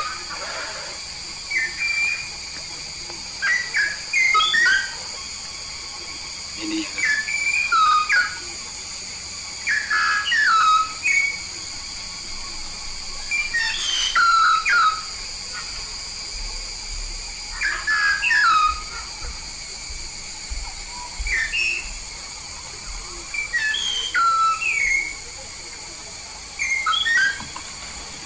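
A jalak paru kuning, a Papuan starling, calling in short whistled phrases of sliding, mostly falling notes, repeated every two seconds or so. A steady high-pitched whine runs underneath.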